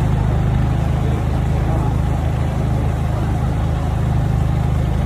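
A motor vehicle's engine running close by: a steady, loud low rumble.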